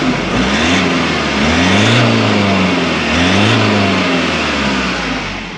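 Ford Ranger Raptor engine revved twice with the stock exhaust removed, running out of just the dump pipe: the revs climb and drop back, then climb and drop again, and fade near the end.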